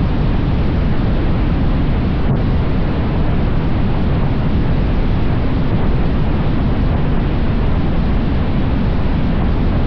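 Steady wind rush and road noise on a camera mounted on a moving motorcycle, loud and unbroken, with no clear engine note above it.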